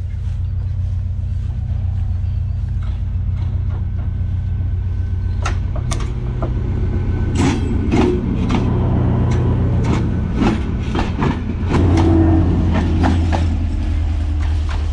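Passenger train running past close by on the track: a steady low rumble, with a run of sharp clacks from the wheels on the rail that starts about five seconds in and comes thickest in the second half.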